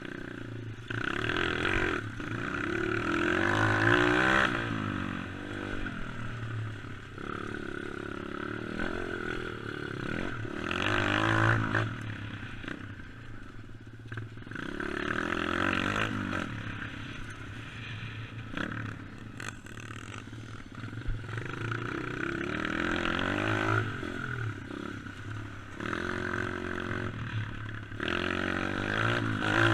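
Dirt bike engine revving hard and falling back again and again, with a loud rising surge every five to seven seconds as the bike is ridden.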